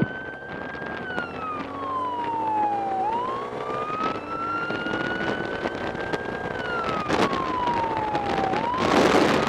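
Police motorcycle siren in a slow wail, its pitch rising and falling twice, over the motorcycle's engine pulling up through its revs. A loud rush of wind noise builds near the end.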